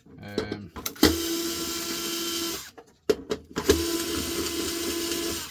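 Power screwdriver running in two bursts of about a second and a half each, backing screws out of a lamp fitting. A short rattle comes just before the first burst.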